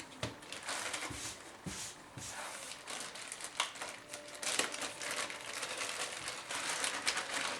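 Crinkling and rustling of a PC case's accessory packaging being handled, with many irregular sharp crackles.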